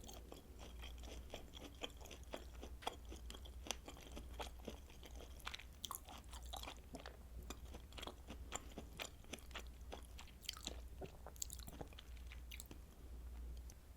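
Close-miked chewing of kielbasa sausage: irregular wet smacks and crunchy clicks that thin out and stop near the end, over a steady low hum.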